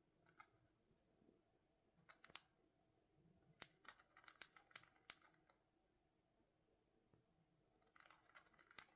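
Faint, irregular sharp clicks and scratchy ticks, coming in short clusters with a denser run in the middle and another near the end; no calls.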